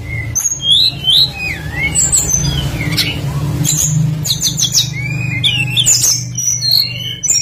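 Songbird singing a fast, varied run of whistled up-and-down glides and sharp chirps, over a steady low hum.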